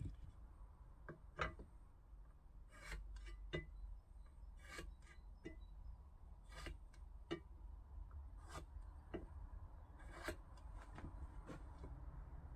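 Faint, irregular light clicks and taps of small objects being handled and set down, about a dozen over several seconds, over a low steady hum.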